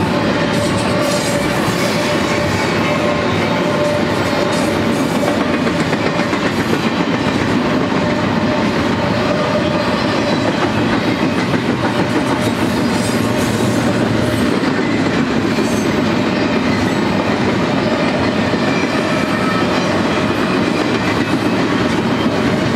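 Double-stack container train's loaded well cars rolling past: a steady rumble of steel wheels on rail, with a faint steady whine underneath.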